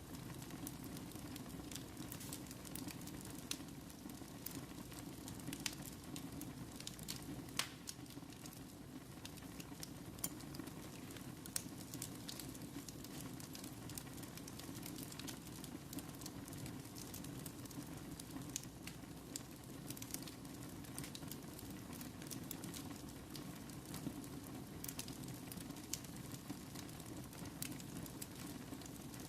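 Fire burning in a fireplace, crackling steadily with many scattered sharp pops over a low, even rumble.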